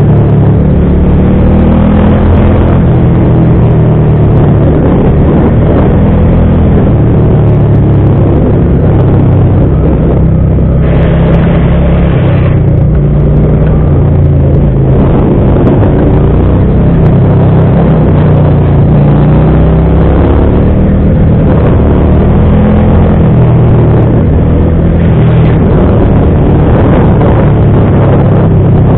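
Motorcycle engine running under way, its pitch rising and falling with the throttle, under a steady rush of noise; a louder hiss comes in for about a second and a half around eleven seconds in.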